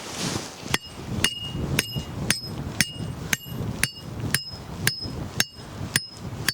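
A metal stake being driven in with a hammer: about a dozen steady blows, roughly two a second. Each blow rings with a short metallic ping.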